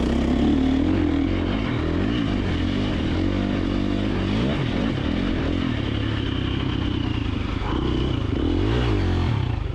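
KTM 350 XC-F single-cylinder four-stroke dirt bike engine running under load on a trail ride, its pitch rising and falling as the throttle is opened and closed.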